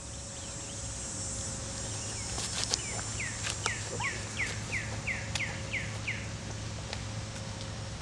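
A songbird singing a quick run of about nine falling whistled notes, roughly three a second, over a steady low hum. A couple of sharp clicks come just before the song.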